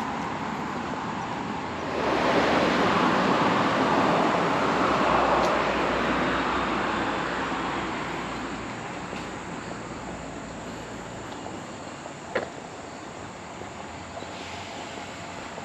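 A vehicle passing by: its noise swells suddenly about two seconds in and fades away slowly over the next several seconds. A single sharp click comes near the end.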